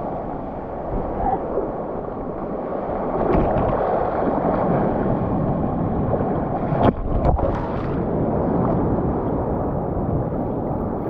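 Muffled sea water washing and sloshing around the microphone, with wind buffeting it. The wash swells a little about three seconds in, and a few sharp knocks come about seven seconds in.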